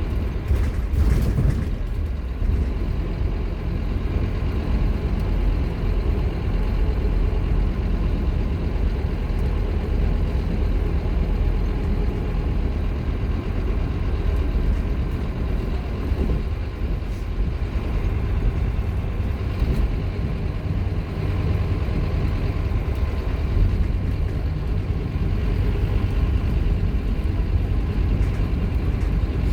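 Scania K230UB Omnilink bus's five-cylinder diesel engine running under way: a continuous low rumble with road noise.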